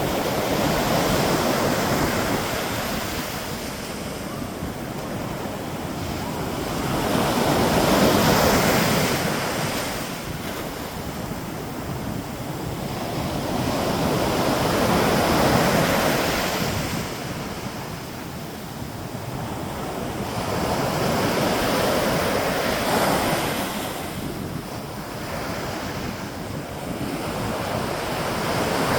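Ocean waves breaking and washing in, the surf swelling and easing about every seven seconds, with wind buffeting the microphone.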